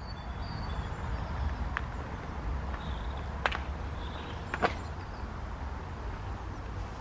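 Outdoor ambience: a low steady rumble with a faint hiss above it, broken by three faint clicks about two, three and a half and four and a half seconds in.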